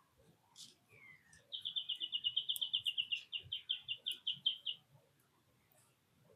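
A songbird sings a trill of rapid, evenly repeated notes for about three seconds. The notes slow to about half speed partway through. Just before the trill there is a short falling note.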